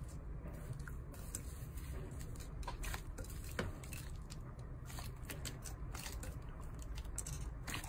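Crunchy slime being squished and pressed by hand, giving irregular small crackles and pops over a low steady hum.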